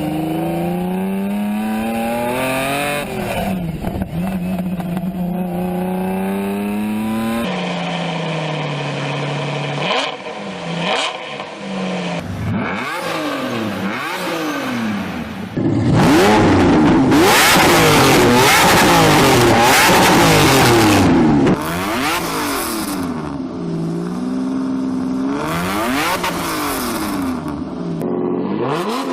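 Lamborghini Diablo V12 engine being revved again and again, its pitch climbing and dropping with each blip of the throttle. The sound changes abruptly a few times, and the loudest revving comes a little past halfway through.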